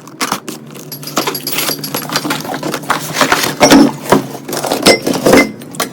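Metal parts clattering and clicking irregularly, with a couple of short metallic rings near the end.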